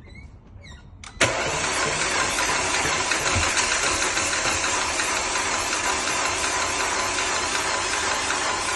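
Starter motor cranking a 2009 Audi A5's 2.0 TFSI turbocharged four-cylinder, which keeps turning over without firing: the crank-no-start fault. A few faint clicks come first, then the cranking cuts in suddenly about a second in and holds at a steady level.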